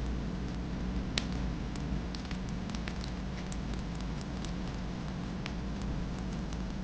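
Fireplace fire crackling: scattered sharp pops and snaps, one louder about a second in, over a steady low rumble of the flames.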